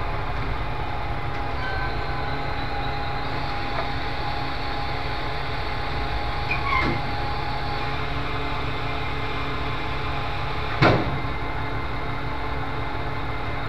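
Vehicle engine idling with a steady low rumble and a faint steady hum. A single sharp click about eleven seconds in.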